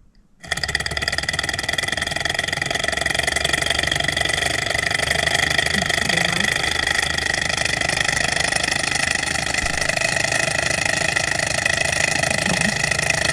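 Small alcohol-fired Stirling hot air engine running at speed: a steady, fast mechanical whir with a high whine, starting abruptly about half a second in.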